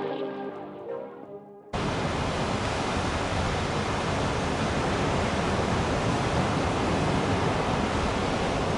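Music with ringing, bell-like tones fades out, then a steady, even rushing noise starts suddenly a little under two seconds in and holds at a constant level.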